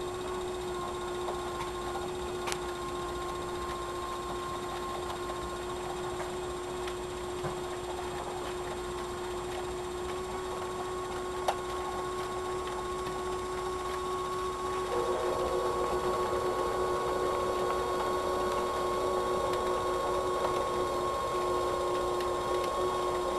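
Model train running on the layout: a small electric motor's steady whine with wheel noise on the track and a few light clicks. It gets louder and fuller about fifteen seconds in.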